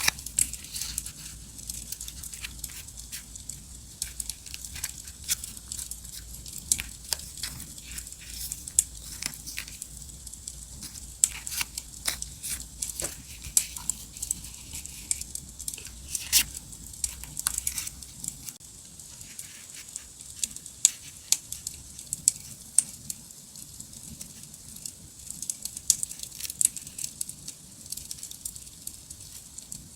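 Irregular crackling and rustling: paper and stickers being crinkled, peeled and torn, over the sharp pops of a campfire crackle track.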